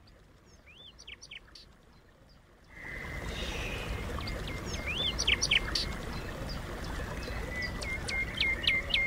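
Small birds chirping. A few faint chirps come about a second in. A steady background hiss and rumble comes up about three seconds in, and over it the birds keep up repeated rising and falling chirps, quicker toward the end.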